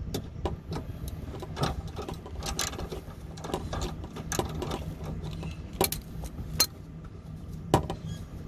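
Hand tools and fasteners clicking and knocking irregularly while a plastic underbody panel is worked loose beneath a car, over a low steady hum.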